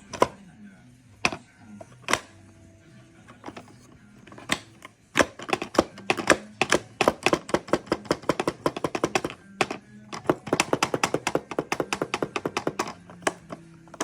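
Light plastic clicks and taps from a mole-hunting cat toy in play. A few single clicks come first, then two long rapid runs of about ten clicks a second.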